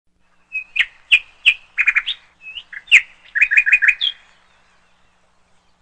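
Bird chirping: a quick run of short, sharp chirps and a few rising whistles, ending about four seconds in.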